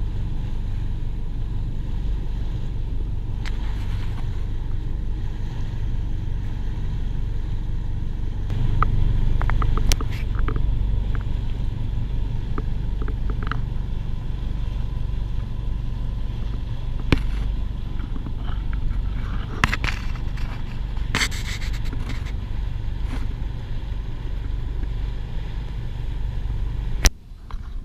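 Boat engine running steadily with a low drone. A few sharp clicks and knocks come over it.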